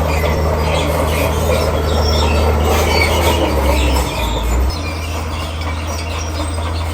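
Komatsu D41P crawler bulldozer's diesel engine running steadily under load, with scattered clicks and squeals from its steel tracks. The engine note shifts and drops slightly about four and a half seconds in.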